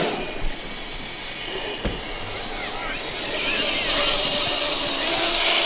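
Traxxas X-Maxx electric RC monster truck being driven: its brushless motor and drivetrain whine along with tyre noise on the ground. The sound grows louder about three seconds in and holds steady.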